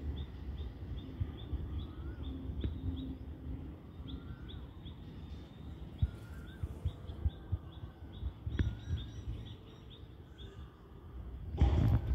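Small birds chirping over a steady low rumble of outdoor noise, with short high chirps several times a second and a few rising-and-falling calls. A brief louder rush of noise comes near the end.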